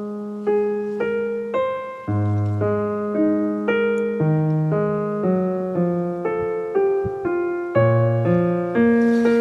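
Soft background piano music: a gentle melody of single notes struck about twice a second over held lower notes.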